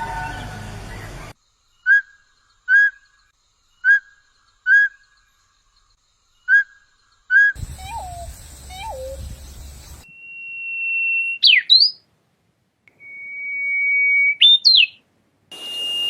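A run of separate bird-call recordings cut one after another. After a held, slightly falling tone in the first second come six short whistled notes in pairs, then two lower falling notes, then two long steady whistles, each ending in quick up-and-down notes.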